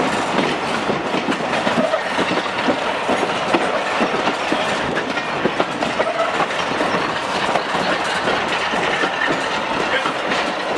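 Railway coach wheels running over jointed track and pointwork, heard from the coach's window: a steady rumble with frequent wheel clicks and knocks.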